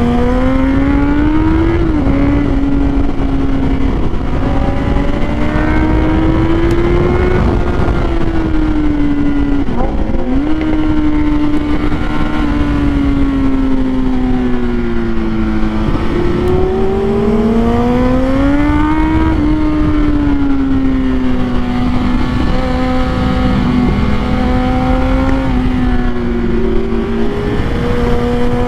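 Kawasaki Z800 motorcycle engine running hard, its pitch rising and falling as the rider rolls the throttle on and off through corners, with a few quick dips and recoveries. Heard from on the bike, with steady wind rush over the microphone.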